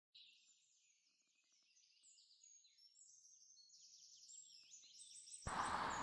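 A songbird singing a rapid, continuous run of high chirping and whistled notes that fades in gradually. About five and a half seconds in, it cuts suddenly to much louder outdoor background noise with a low rumble.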